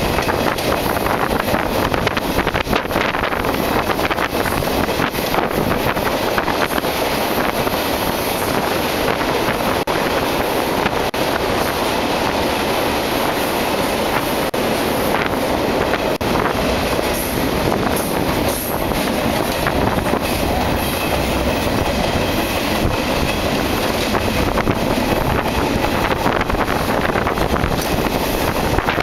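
Freight train rolling along, heard from aboard a moving freight car: a loud, steady rumble and clatter of steel wheels on the rails.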